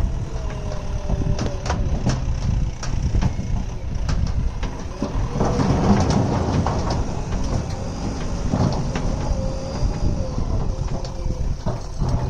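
JCB earthmoving machine's diesel engine running steadily, with a faint wavering whine and scattered knocks and clanks.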